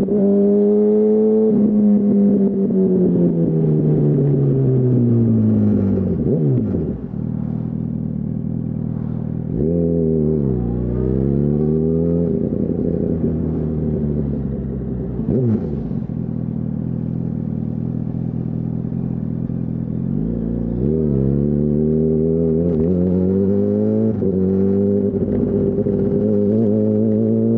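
2008 Yamaha R1's inline-four engine through a Termignoni full exhaust: it starts at high revs and winds down over several seconds as the throttle is closed, then idles with a quick throttle blip about ten seconds in and a shorter one a few seconds later. Near the end it pulls away, the pitch climbing and dropping back at each upshift.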